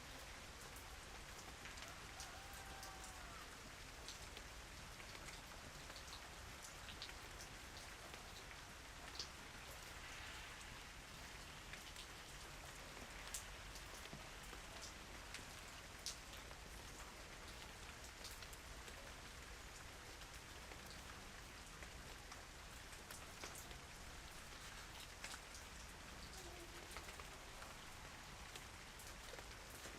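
Quiet, steady rain, with individual drops landing as sharp ticks every second or so.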